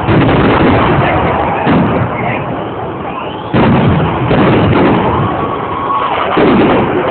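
Fireworks shells bursting overhead: two sharp booms about three and a half seconds apart, each followed by rumbling and crackle, with faint whistling glides between them.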